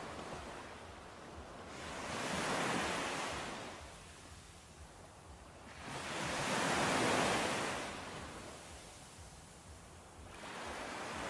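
Sea waves washing onto the shore: the surf rises and falls in slow surges, two waves swelling in and drawing back, a third building near the end.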